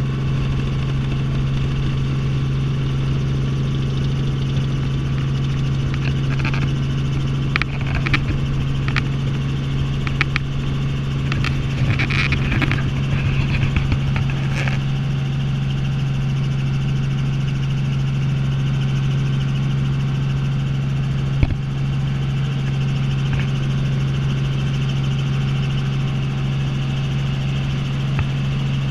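Helicopter in flight, heard from inside the cabin: a steady, loud engine and rotor drone with a strong low hum. Short clicks and crackles come and go between about six and fifteen seconds in, with one sharp click later.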